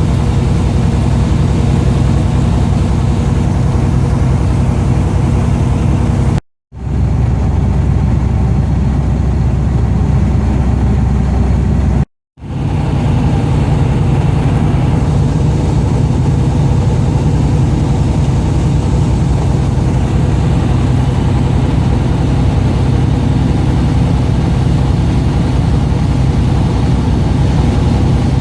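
Fishing boat's engine running steadily at a low, even pitch. The sound cuts out completely twice for a moment, about six and twelve seconds in.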